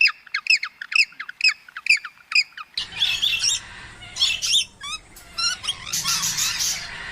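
Bird squawking in short repeated calls, about three a second. After an abrupt change a little under three seconds in, a different set of irregular, higher bird calls follows over steady background noise.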